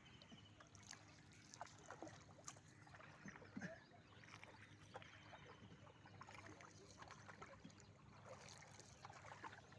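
Faint water lapping and trickling against a boat's hull, with scattered small splashes over a low steady hum.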